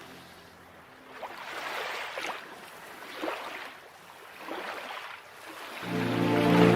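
Water washing in repeated swells, several in a few seconds, with music coming back in near the end.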